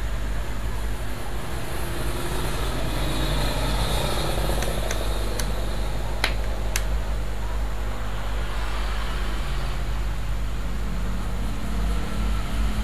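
Steady low background drone, with a few short sharp clicks about halfway through.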